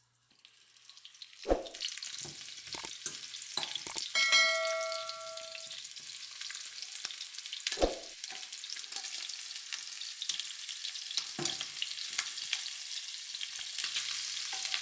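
Chicken wings frying in hot oil, a steady sizzle that builds over the first second. A few sharp knocks of a utensil against the pan, and a short metallic ring about four seconds in.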